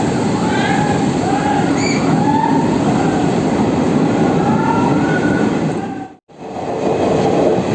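Train running through a rock tunnel, heard from on board: a loud steady rumble of wheels on rails with wavering squeals from the wheels. The sound cuts out for a moment about six seconds in, then the rumble returns.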